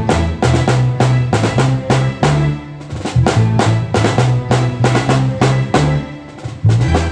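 Live band playing without vocals: a drum kit with snare and bass drum keeping a steady beat over held low bass notes.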